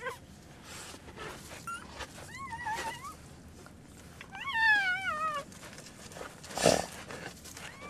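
Newborn Arabian wolf cub squealing: a few short high squeaks, a wavering cry about two seconds in, and a longer wavering cry that falls in pitch around the middle. A short loud rustle near the end.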